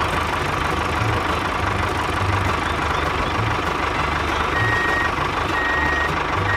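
A vehicle engine runs steadily. About four and a half seconds in, a reversing alarm starts beeping, roughly once a second.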